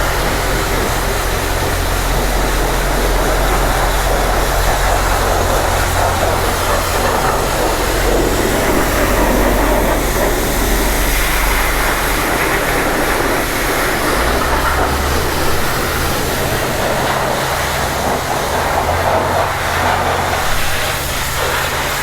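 Car-wash pressure-washer wand spraying a high-pressure jet of water onto a mud-caked motorcycle: a steady, loud rushing hiss of spray over a low rumble.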